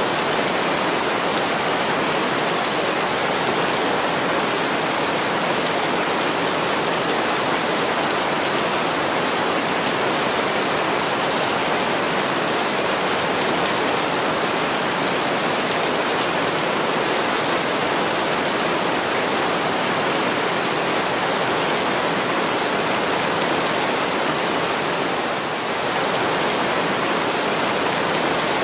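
Heavy rain pouring steadily on a window pane, an even rushing hiss that hardly changes.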